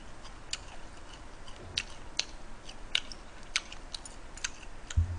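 Close-miked mouth sounds of someone eating: irregular wet clicks and smacks of chewing, roughly two a second, with a short low thump just before the end.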